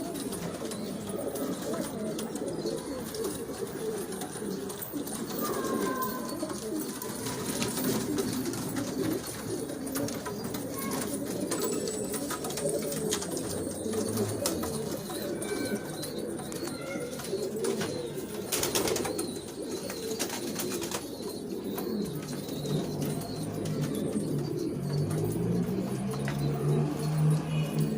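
A flock of domestic pigeons cooing together in a continuous, overlapping murmur. A single sharp knock comes about two-thirds of the way through, and a closer bird gives a lower, drawn-out coo near the end.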